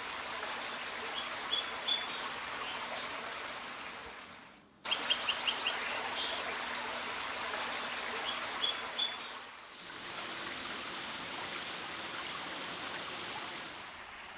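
A songbird singing short phrases of high, quick notes, heard twice, over a steady rushing background. From about ten seconds in the birdsong stops and only the even rushing noise remains.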